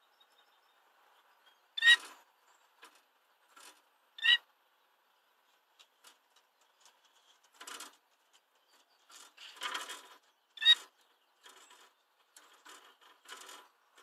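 Canary x bullfinch hybrid (mule) calling in its cage: three short, loud, clear calls a few seconds apart, with softer, scratchier sounds in between.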